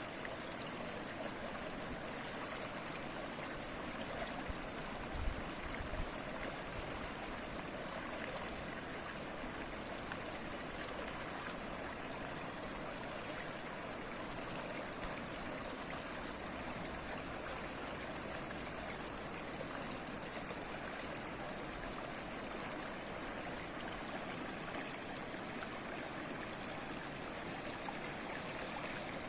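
Babbling stream, water running steadily over stones. A couple of brief low thumps about five to six seconds in.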